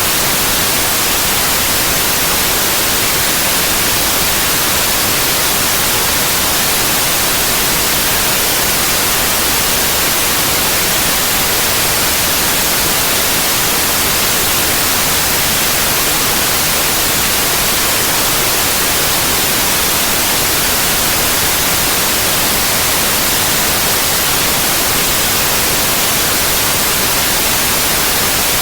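Synthetic white noise: a loud, steady, even hiss, brightest in the high frequencies, without any change.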